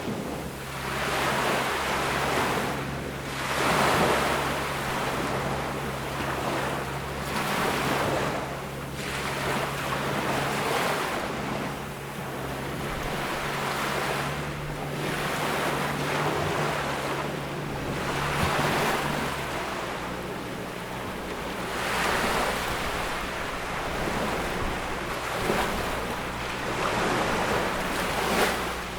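Small ocean waves breaking and washing up a beach, the surf swelling and fading every two to four seconds. A faint low steady hum underneath stops about two-thirds of the way through.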